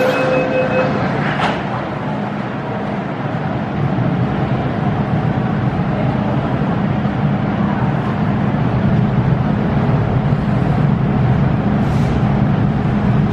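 MTR Tsuen Wan Line electric train running, a steady rumbling noise that grows slightly louder a few seconds in. A steady high tone stops about a second in, followed by a short click.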